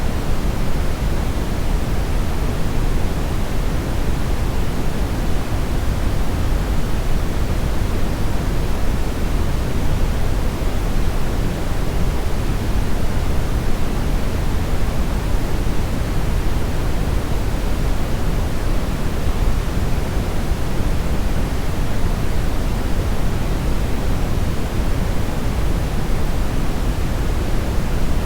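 Steady generated brownish noise: an even, unbroken hiss weighted toward the bass and rolling off in the treble.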